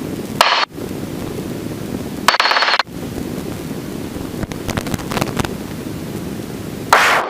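Helicopter cabin noise heard through the headset intercom, a steady low rumble, broken three times by short bursts of radio hiss that briefly cut out the rumble: about half a second in, around two and a half seconds in, and near the end.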